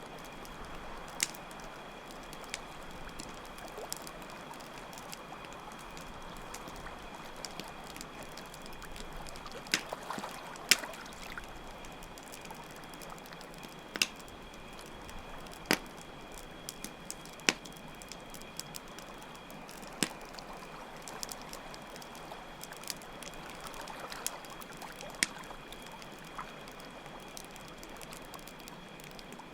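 Campfire crackling with irregular sharp pops over a steady trickle of running water, with a continuous high cricket trill.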